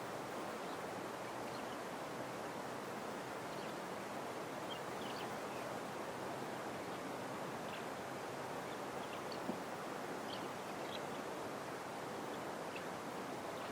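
Steady white-noise hiss with faint, scattered bird chirps over it, and one brief soft tick about nine and a half seconds in.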